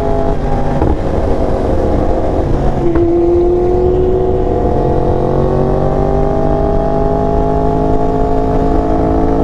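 Motorcycle engine running hard on the road, its pitch stepping up about three seconds in and then climbing slowly and steadily as it accelerates.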